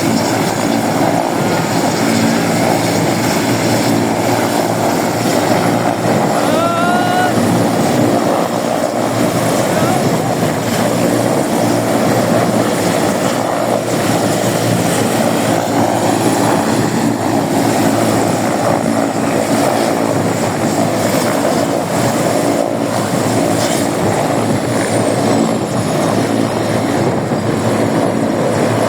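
Helicopter engine and rotor running, a loud steady drone.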